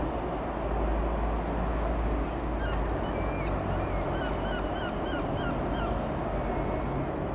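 Cessna F172N Skyhawk's single piston engine running steadily. A quick run of short squeaky chirps comes in the middle.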